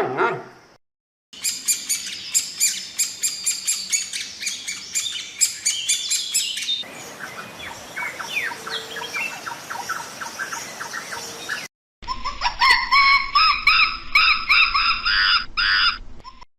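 Small birds chirping and singing in quick, repeated short calls, heard as three separate recordings cut one after another, with a brief silence between them.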